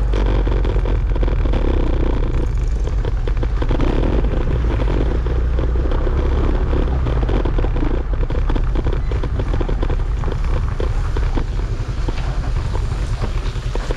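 Motorbike riding along at a steady pace, its engine and road noise under a heavy, constant wind rumble on the microphone.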